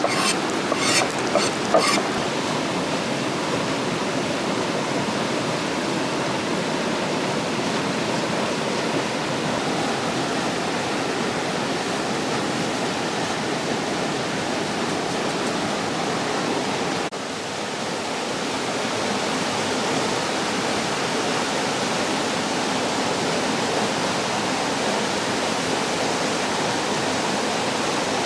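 Steady rushing of a waterfall, with a few sharp clicks in the first two seconds. The level dips briefly about 17 seconds in, then comes back.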